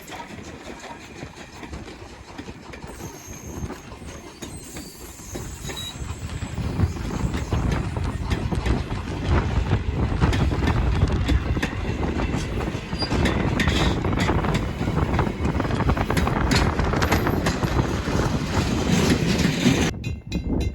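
A train passing close by: rumble and the clicking of wheels over the rails, building up over the first several seconds and then staying loud.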